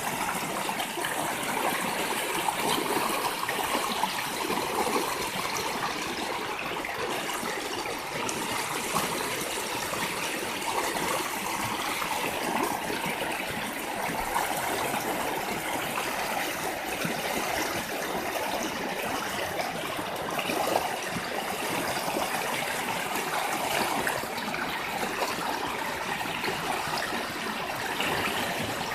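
A mountain stream running over rocks, a steady rush of water with small splashes and gurgles.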